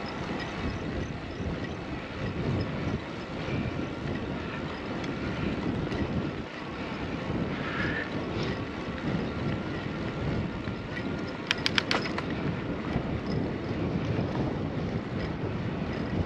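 Wind rushing and buffeting over a bicycle rider's GoPro microphone while riding, a gusting low rumble mixed with road noise. A quick run of sharp clicks comes about three quarters of the way through.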